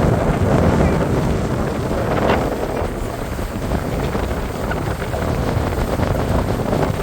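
Wind buffeting the microphone aboard a moving boat, a steady low rumble with the rush of the boat through the water underneath.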